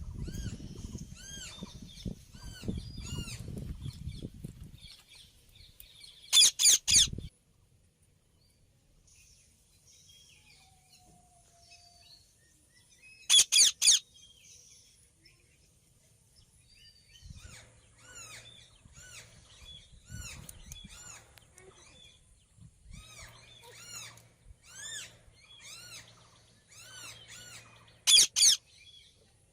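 Indian ringneck parakeets calling: runs of short, rising-and-falling chirps, broken three times by a very loud burst of about three harsh screeches in quick succession. A low rumble sits under the first few seconds.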